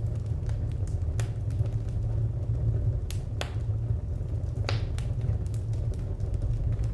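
Wood fire crackling: scattered sharp pops, two louder ones in the middle, over a steady low rumble.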